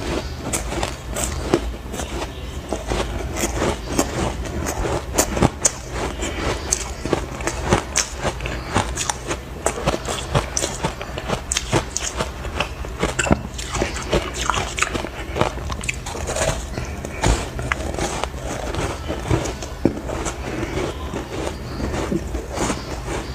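Close-up crunching of ice chunks dusted with matcha powder being bitten and chewed: a dense, irregular run of sharp crunches and cracks, over a steady low hum.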